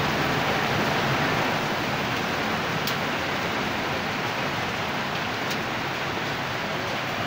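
Steady rain shower, an even hiss of rain falling on wet ground, with two sharp ticks of nearby drops, one about three seconds in and one a couple of seconds later.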